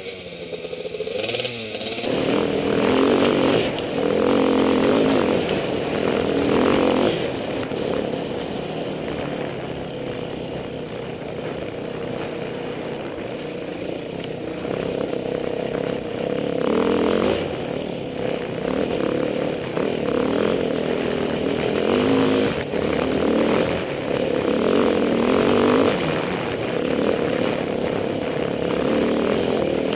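Yamaha WR450F trail bike's single-cylinder four-stroke engine running under the rider, heard through a helmet camera. The revs rise and fall with the throttle, picking up about two seconds in.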